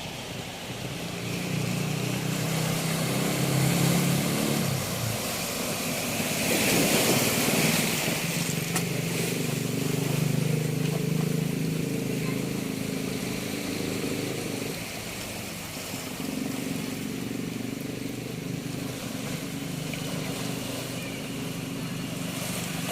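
Motor engine running steadily, its pitch shifting a few times, over the wash of waves. A louder surge of wash comes about seven seconds in.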